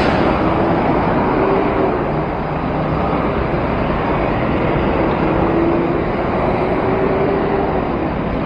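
Steady rush of wind over a moving cyclist's camera microphone, mixed with road traffic noise. A vehicle's engine hum comes and goes.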